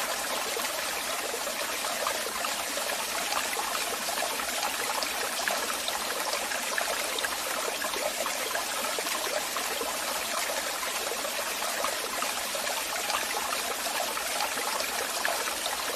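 Waterfall: water falling and splashing in a steady, even rush with fine splashy detail and little deep rumble.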